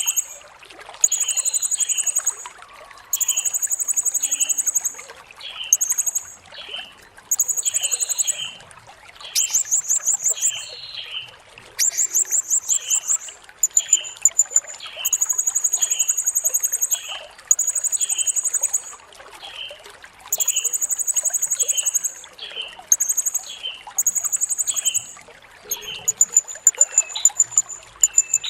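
Blue-crowned hanging parrot (serindit) singing: a run of shrill, very high buzzy trills about a second long, repeated every one to two seconds, with short lower chirps between them. A faint trickle of water runs underneath.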